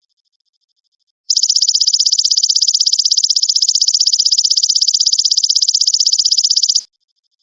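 Belalang emas ('golden grasshopper') insect singing: a loud, rapidly pulsed high buzzing trill that starts about a second in, runs for about five and a half seconds and cuts off sharply near the end.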